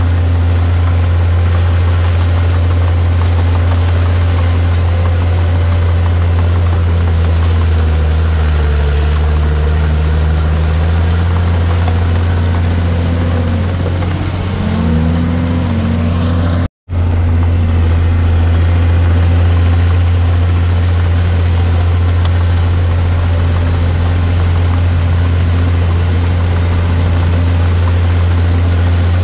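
Komatsu D51PX crawler bulldozer's diesel engine running steadily, its pitch rising and falling a few times midway as the engine speed changes. The sound cuts out for an instant about two thirds of the way through.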